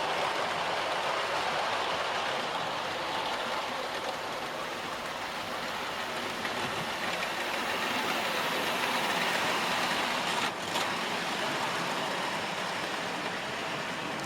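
Model train running on the layout's track: a steady whirr of the locomotive's motor and wheels rolling on the rails, dipping briefly about ten seconds in.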